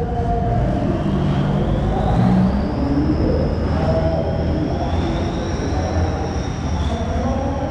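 Drag-race vehicle engines running at the start line: a steady low rumble, with a thin high whine that rises slowly over the first few seconds.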